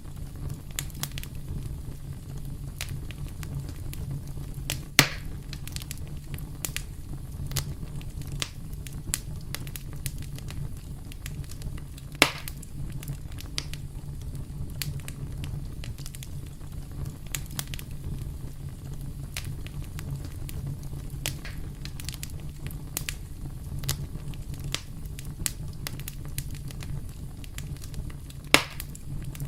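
Wood campfire burning, with a steady low rumble and constant small crackles. Three louder pops stand out: about five seconds in, around twelve seconds, and near the end.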